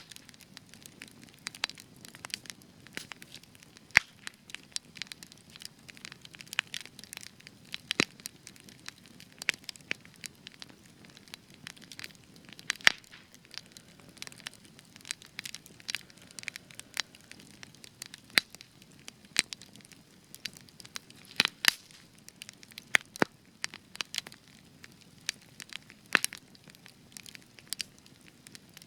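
Spruce-wood campfire crackling, with irregular sharp pops and snaps over a soft low rumble of the burning fire.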